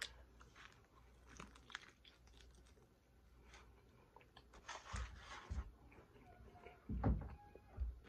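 A person biting into and chewing a piece of sauced chicken, with soft mouth clicks and smacks, and a few dull thumps around the middle and near the end.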